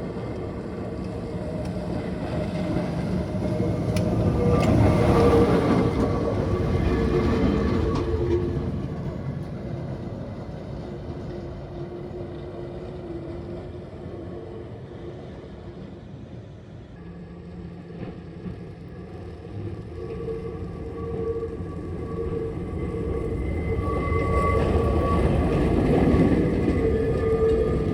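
Electric tram running on its rails: a steady rumble with a constant pitched hum, growing louder twice, about five seconds in and again near the end.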